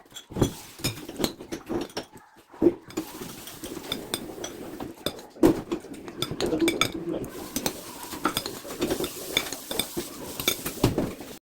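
Metal utensils clinking and scraping against dishes in irregular knocks and clicks, cutting off suddenly near the end.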